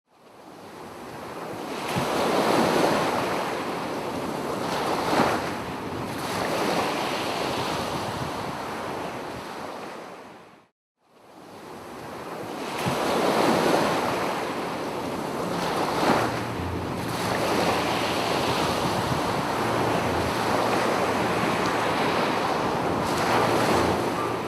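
Sea waves breaking and washing up a beach, swelling and easing several times, with wind buffeting the microphone. The sound fades in, cuts out briefly about eleven seconds in, then fades back in.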